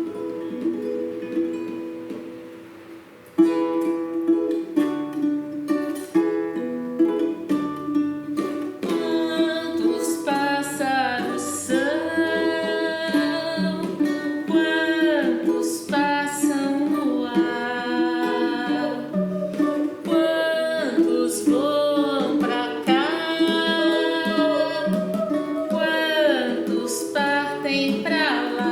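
Requinto guitar playing picked notes: a chord rings and fades over the first three seconds, then the picking starts again sharply. From about nine seconds in, women's voices sing over the guitar in harmony.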